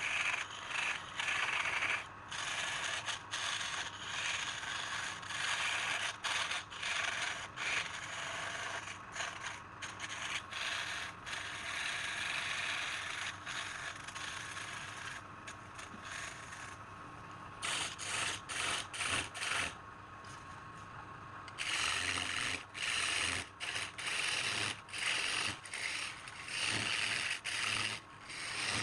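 Woodturning lathe running while a tool scrapes against the spinning wood in many short passes, each broken off by a brief pause. The lathe's motor adds a faint steady tone underneath. The scraping eases off in the middle for several seconds and then comes back.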